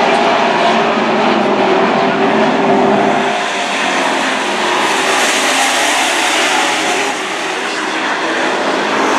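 Engines of Super Truck racing trucks running hard on a dirt oval, several motors overlapping in a steady, loud drone, dipping a little near the end.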